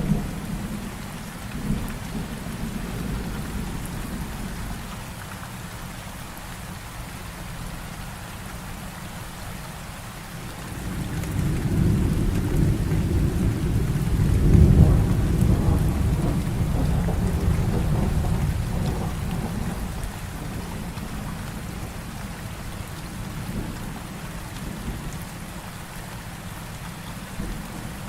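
Heavy rain falling steadily, with a long, low rumble of thunder that swells about ten seconds in, peaks a few seconds later and slowly dies away.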